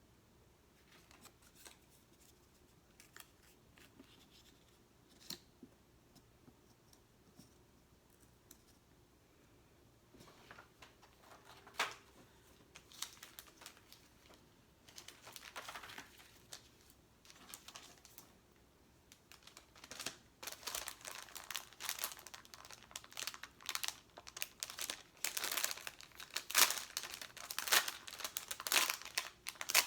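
Sticker sheets crinkling and stickers being peeled and pressed down, a sticky crackling. It is faint and sparse at first and turns busy and louder from about twenty seconds in.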